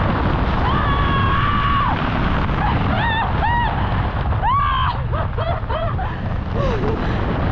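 Wind buffeting the microphone during a tandem skydive, with a person's high-pitched whoops and held cries over it, several of them rising and falling in pitch.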